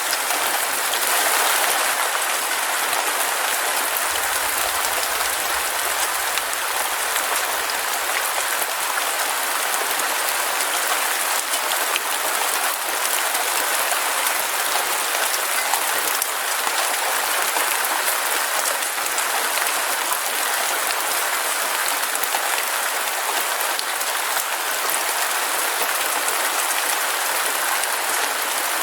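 Heavy rain falling steadily, a dense crackling hiss of drops with no break.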